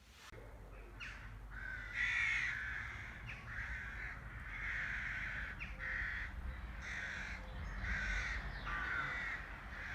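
A bird calling over and over, about a dozen short calls each roughly half a second long, over a low steady rumble.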